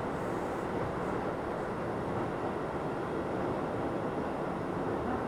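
Keio 7000 series electric commuter train running, heard from inside the car: a steady rumble of wheels on rail and running gear with no marked changes.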